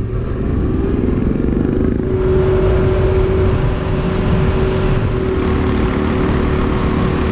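Motorcycle engine pulling away and speeding up, its pitch rising over the first two seconds, then running at a steady cruising speed with wind noise.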